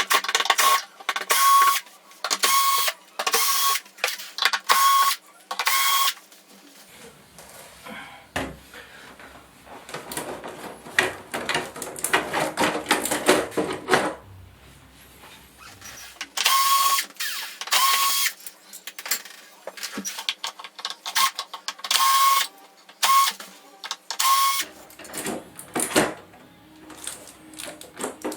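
Electric screwdriver running in short bursts of about half a second with a steady whine, backing screws out of a TV's rear cover. A stretch of clattering handling noise comes between the two runs.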